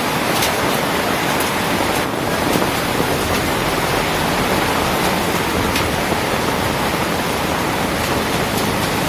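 Heavy rain pouring down steadily, a dense even hiss with now and then a sharper tick of a drop striking.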